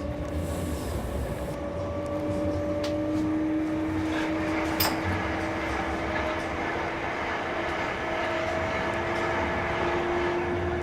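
Inside a Class 387 electric train running along the line: steady rumble from the wheels and rails, with the traction motors' whine slowly rising in pitch as the train picks up speed. A single sharp click comes about five seconds in.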